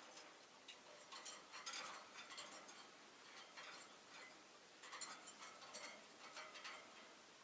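Rosy-faced lovebirds making faint, quick clicks and soft chirps that come in two short spells.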